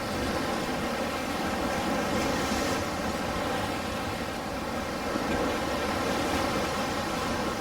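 Ocean surf: waves washing in as a continuous rushing noise that swells and eases gently.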